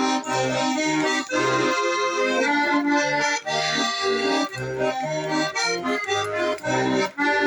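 Accordion playing an instrumental interlude between sung verses: a melody over a steady bass line of low notes alternating with chords.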